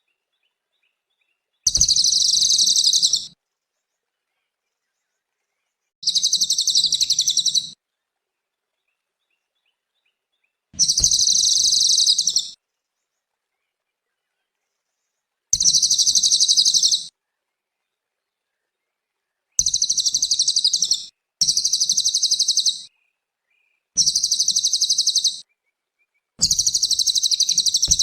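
A cililin bird singing in repeated high, fast trilling phrases, each about a second and a half long, separated by silent gaps of a few seconds. Toward the end the phrases come closer together.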